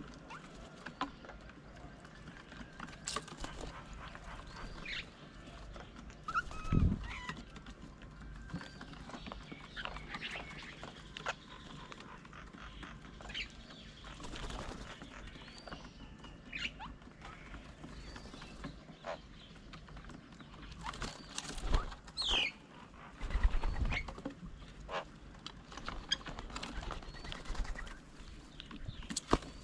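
Several birds chirping and calling with short whistled notes at a bird feeding table. There are a few low thumps, once about a quarter of the way in and twice near the end.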